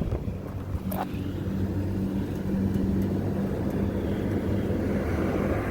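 Steady low engine hum with the rush of road traffic swelling past over a few seconds, and a single sharp click about a second in.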